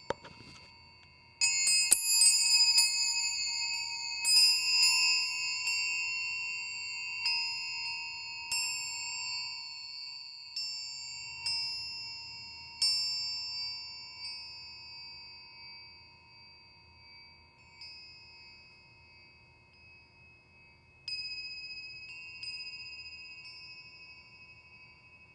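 Metal sound sculpture with hand-hammered brass tines being struck. It gives bright, high, chime-like notes that ring and die away slowly. A quick cluster of strikes comes about a second and a half in, followed by single strikes every second or so that thin out. One more strike near the end rings on.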